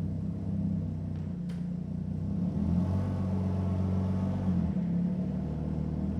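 Jaguar XJ6 3.2-litre straight-six running with its mufflers deleted, a deep exhaust note at idle. From about two and a half seconds in, the revs rise gently and the exhaust gets louder, then they fall back to idle near five seconds. A short click sounds about a second and a half in.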